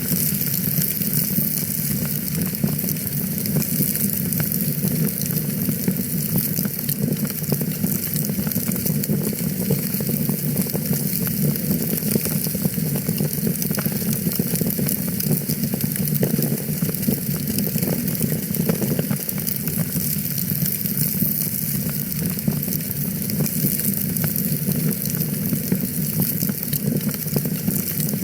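Wood fire burning in a fireplace, crackling steadily with a dense run of small pops and snaps over a constant low rush.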